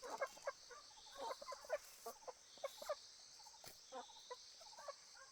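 Chickens clucking in short, irregular calls, several birds at once, with a steady high insect buzz behind them.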